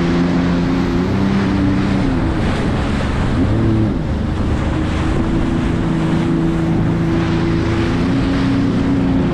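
Sea-Doo jet ski engine running under way, its pitch shifting as the throttle changes between about one and four seconds in, then holding steady. Wind buffets the microphone over it.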